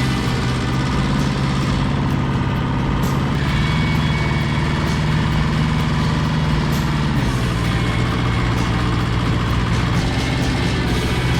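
Diesel tractor engine running steadily under work, its note rising about three seconds in and dropping back about seven seconds in.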